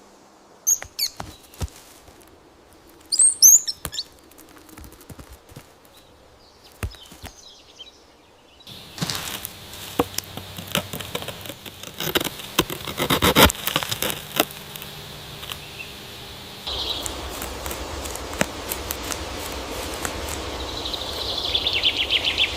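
Small birds chirping: a few short high calls in the first four seconds. Then a stretch of outdoor ambience with many sharp clicks and rustles, and a falling bird call near the end.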